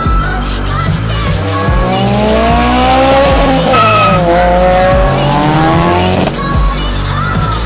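A car engine revving hard under acceleration: it climbs in pitch, drops with a gear change about halfway through, then climbs again before cutting off. Background music with a steady beat plays throughout.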